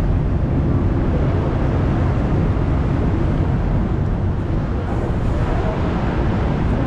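Steady low rumble of a river tour boat's engine running, mixed with wind blowing on the microphone.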